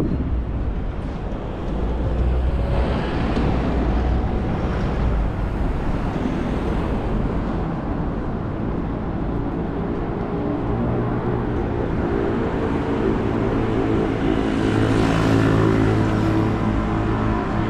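Street traffic: vehicles passing one after another, with a heavy engine's steady hum coming in about halfway through and growing louder near the end.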